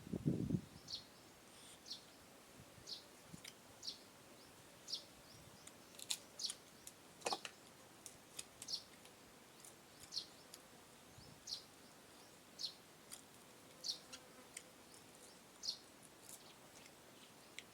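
A small bird chirping: short, high calls repeated irregularly about once a second. There is one sharper click about seven seconds in.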